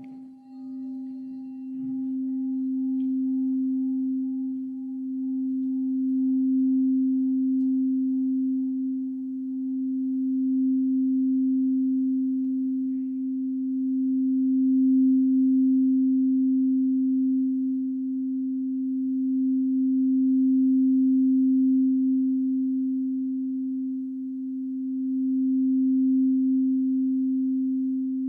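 Singing bowl played around its rim, giving one sustained, very pure tone that swells and eases in loudness without dying away. A few fainter higher overtones fade out within the first few seconds.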